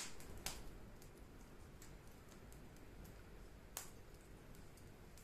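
Wood fire crackling faintly, with a few sharp pops and scattered small ticks over a low rumble.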